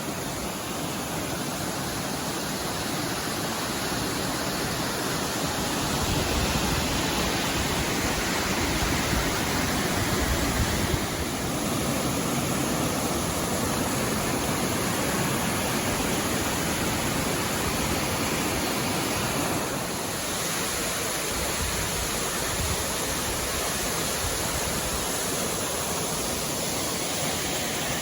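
Steady rush of a mountain waterfall about 50 to 60 feet high pouring into its pool.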